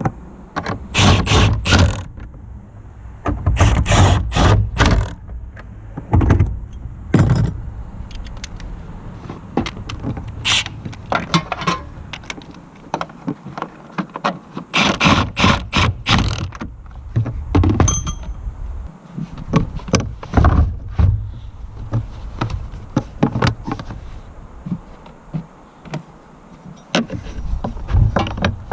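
Metal tools and car parts knocking, clanking and scraping in irregular bursts, with quieter pauses between them.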